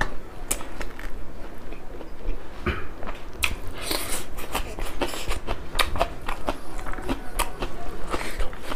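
Close-miked chewing and lip-smacking of a mouthful of rice and curry eaten by hand, with many short, irregular wet clicks.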